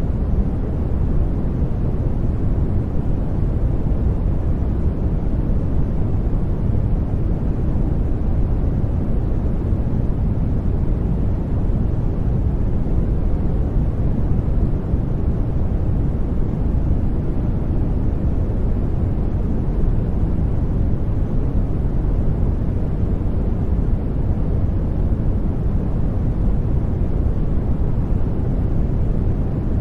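Steady synthetic noise from a sleep-noise track, unchanging throughout, deep and rumbling with most of its weight in the low range and little hiss up top, nearer brown noise than flat white noise.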